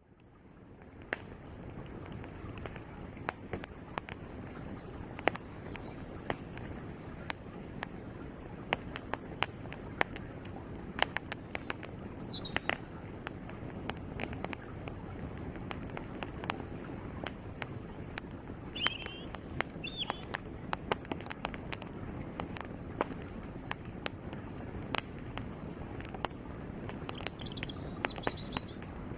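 Wood campfire crackling with frequent sharp pops, over the steady rush of a flowing creek. Small birds chirp briefly a few times.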